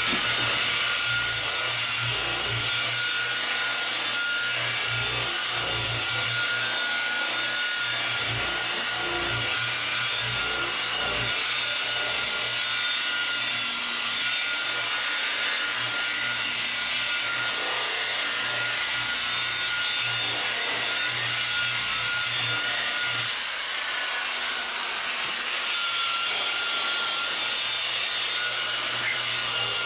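Electric car-paint buffer running steadily at low speed on the paint, a constant motor sound with a thin steady whine.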